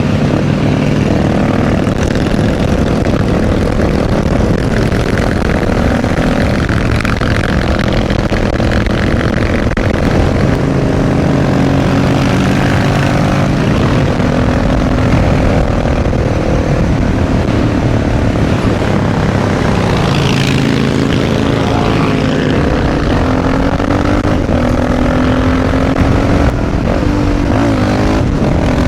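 Motorcycle engine running at riding speed, with wind rushing over the microphone; the engine note rises and falls slowly with the throttle, with a quick rev change near the end.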